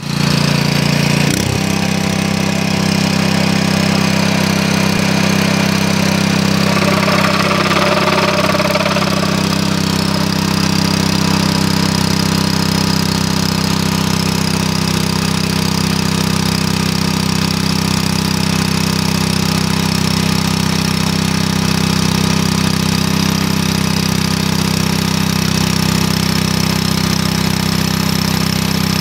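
Engine-driven portable rail drill running steadily at constant speed with a strong even hum. For a couple of seconds about a third of the way in, a rougher, higher-pitched sound joins in.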